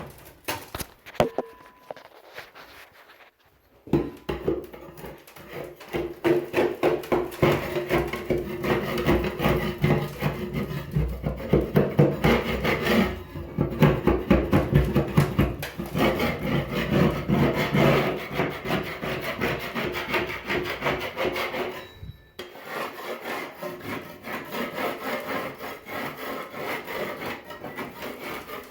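Paint being scraped off a surface in rapid, repeated scraping strokes. The strokes pick up a few seconds in and stop briefly twice.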